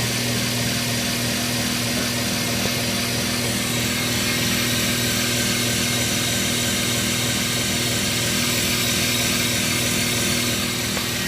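GE washing machine's drive motor running steadily on the spin cycle, a steady hum over a whirring hiss. The motor pulley spins but the belt does not turn, so the basket stays still.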